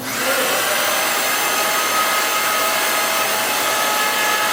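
Electric hoist motor running steadily while lifting a steel H-beam, a whirring hum with a steady whine that switches on at the start.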